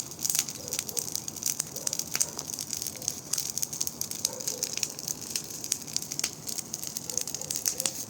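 Wood bonfire burning, built as a Soviet-style 'pioneer campfire': frequent irregular crackles and sharp pops over a steady hiss.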